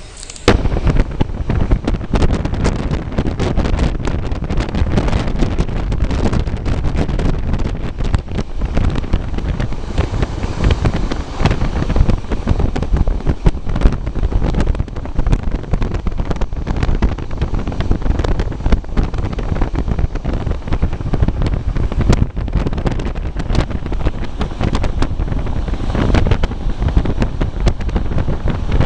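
Wind buffeting the microphone over the low rumble of a moving train, with irregular gusty thumps. It cuts in suddenly about half a second in and stays loud.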